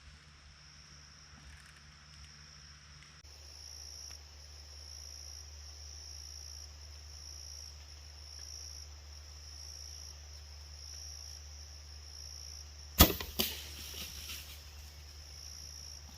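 Insects chirping in a slow, even pulse, a bit more than one chirp a second. About thirteen seconds in, a sharp loud crack of a bow being shot, followed by a few smaller knocks.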